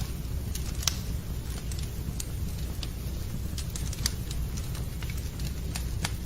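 Wood fire crackling and popping over a steady low rumble of the flames, with irregular sharp pops several times a second; the loudest come about a second in and near four seconds.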